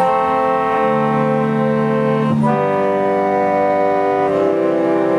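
Pipe organ playing slow, sustained chords that move to a new chord three times.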